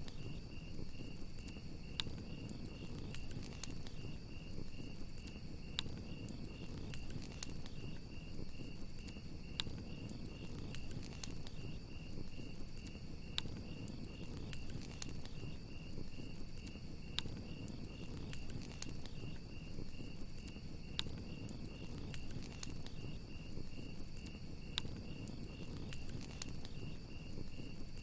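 Crickets chirping steadily in a fast, unbroken trill, over a wood fire's low rumble and crackle with a sharp pop every few seconds.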